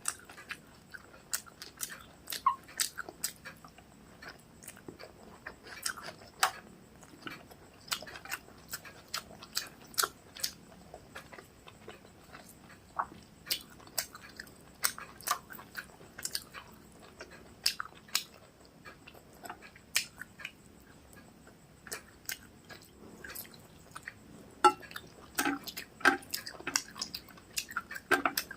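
Close-miked chewing and mouth sounds from eating rice with chicken and egg curry: irregular wet smacks and clicks, a few a second, with a busier run near the end.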